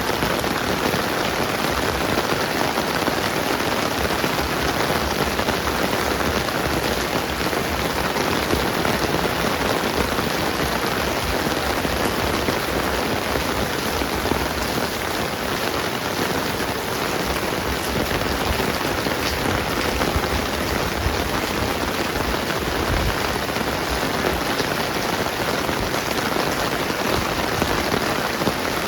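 Steady rain falling and pattering on the ground and surfaces.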